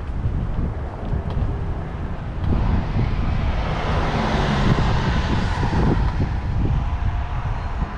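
Steady rumble of wind on the microphone while cycling, with a passing vehicle's noise swelling and fading over a few seconds in the middle.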